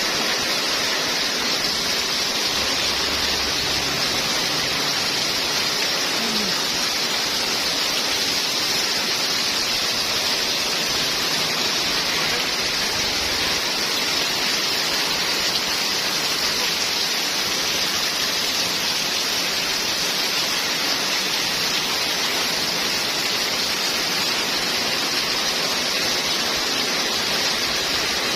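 Heavy rain pouring down in a steady, dense hiss, with strong wind.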